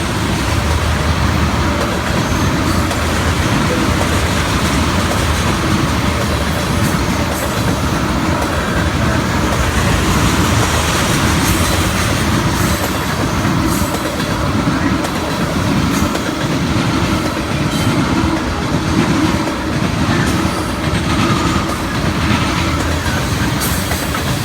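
Norfolk Southern freight train passing close by: a steady loud rumble of the cars rolling past, with wheels clacking over rail joints.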